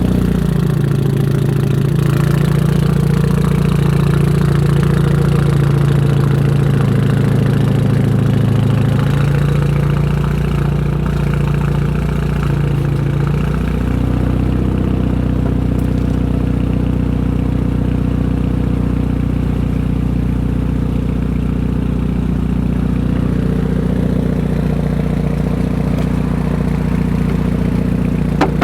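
A 2013 Hyundai Genesis Coupe's turbocharged 2.0-litre four-cylinder idling through a 3-inch single-exit catless exhaust, a steady drone whose idle settles a little lower about halfway through. A short click near the end.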